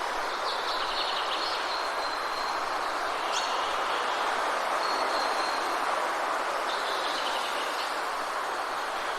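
Forest ambience: birds giving high thin whistled notes and two quick trills, with a sharp sweeping call about three seconds in, over a steady rushing hiss.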